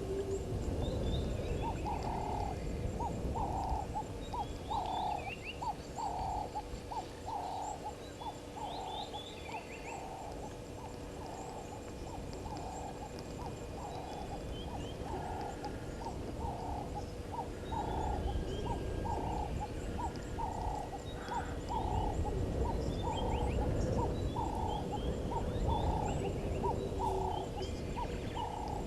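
Outdoor wildlife ambience at a waterhole. An animal gives a short call about once a second, steady throughout, with scattered high bird chirps and a low rumble of wind.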